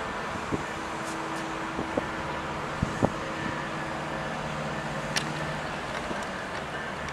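Steady vehicle noise with a low hum, broken by a handful of short, sharp knocks and clicks.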